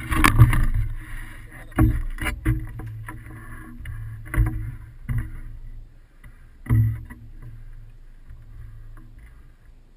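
Wind buffeting the microphone during a hang-glider flight, a low rumble that surges in uneven gusts.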